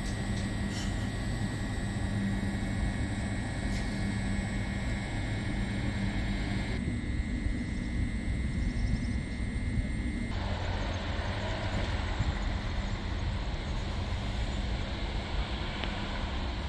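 Italo high-speed electric train standing at the platform, its onboard equipment humming steadily with a constant whine over a low drone. The sound changes abruptly twice, about seven and ten seconds in.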